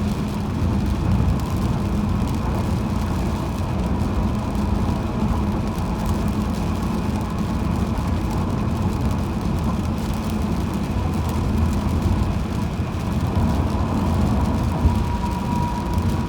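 Car driving on a highway: steady tyre and road rumble with engine hum. A faint thin whine comes in during the last few seconds.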